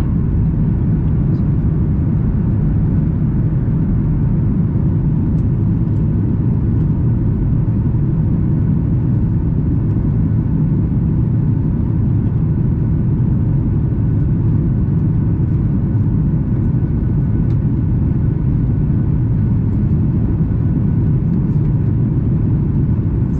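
Steady cabin noise inside a Boeing 737 MAX 8 climbing after takeoff: the low rumble of its CFM LEAP-1B engines and the airflow, with a faint steady hum higher up.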